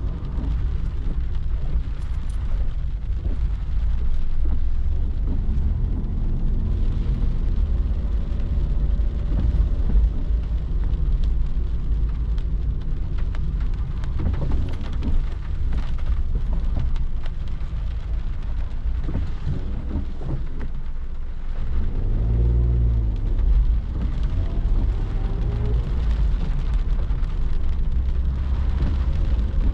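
Car driving in heavy rain, heard from inside the cabin: a steady low road and engine rumble with rain hissing on the bodywork. About three-quarters of the way through, the engine note climbs as the car accelerates.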